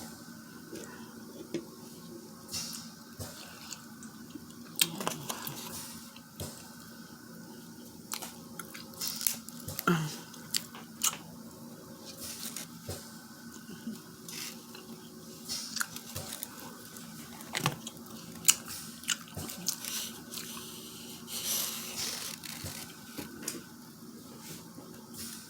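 Close-up eating of a buttery seafood boil: wet squishing, smacking and chewing, with sharp irregular clicks and cracks from shells being broken and handled.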